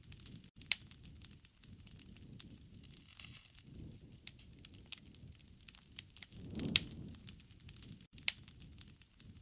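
Wood fire burning, crackling steadily with scattered sharp pops over a low rush of flame that swells about seven seconds in.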